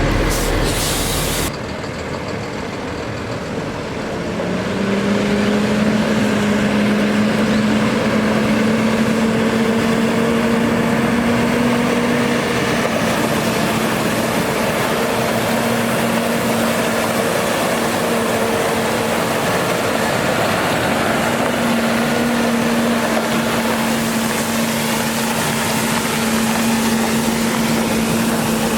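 Cummins ISC-300 diesel engine of a water truck speeding up about four seconds in, then holding a steady raised speed, over a constant rushing noise.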